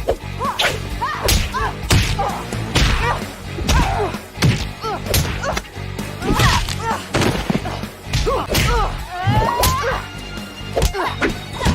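Animated fight sound effects: a quick run of punch and kick impacts, thuds and whooshes.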